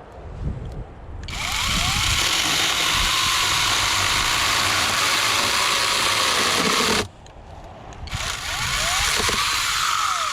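Cordless battery chainsaw cutting wood in two long runs: the first starts about a second in and stops sharply about seven seconds in, the second starts a second later and winds down near the end.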